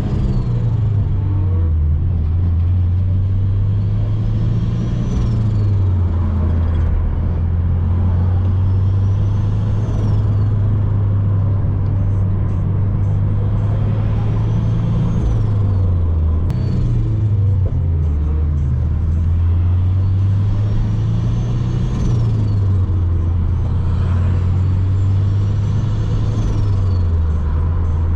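Subaru BRZ's flat-four engine under way, its note climbing steadily and then dropping back about every five seconds, like a run up through the gears.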